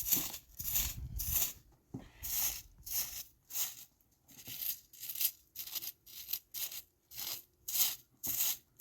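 Footsteps crunching through deep snow, a steady walking rhythm of about two crunchy steps a second.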